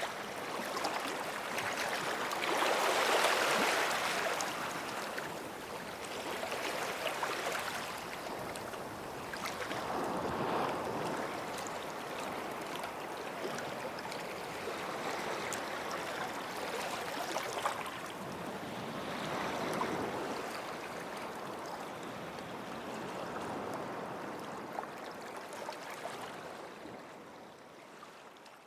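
Small waves washing onto a sandy beach, each swell of surf rising and falling every few seconds, then fading out near the end.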